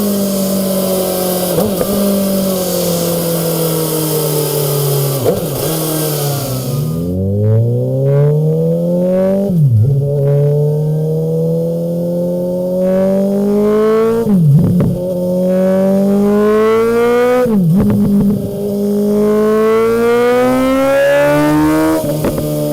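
Suzuki GSX-S750's inline-four engine through a Mivv Suono aftermarket exhaust. It winds down at first, then pulls hard up through the revs several times, and the pitch drops sharply between each pull, like gear changes.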